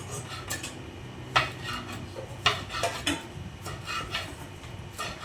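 Kitchen utensils and dishes clattering: about ten sharp metallic clinks at an uneven pace, some ringing briefly.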